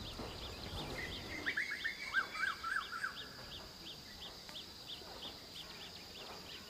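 Outdoor birdsong: a high chirp repeats evenly about three times a second throughout, and about a second in a bird sings a louder run of quick notes lasting about two seconds.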